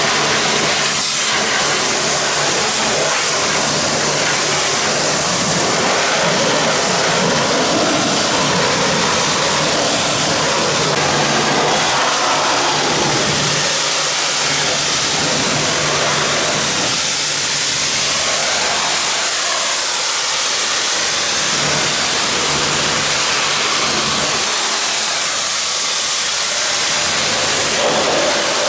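Pressure washer spraying: a loud, steady hiss of the high-pressure water jet over a constant low hum from the machine's motor.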